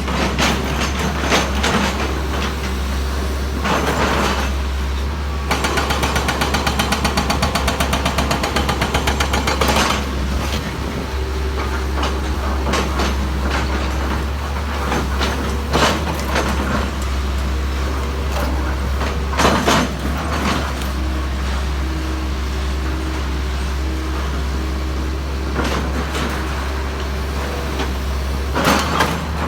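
Heavy diesel construction machinery running with a steady low drone. From about five to ten seconds in comes a fast, even hammering rattle, and short knocks are scattered through the rest.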